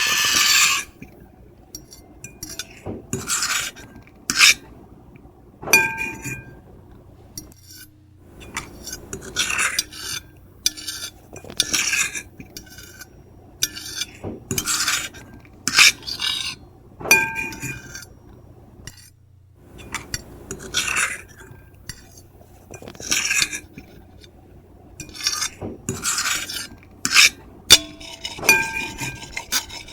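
Metal fork and knife scratching across a plate: a loud continuous scrape for the first second, then short separate strokes about every second or so, some leaving the plate ringing briefly.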